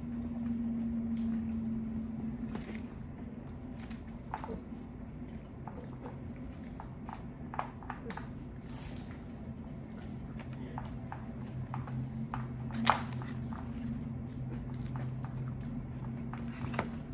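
A person eating: chewing with scattered wet mouth clicks and a few sharper taps, one of them louder about thirteen seconds in, over a steady low hum.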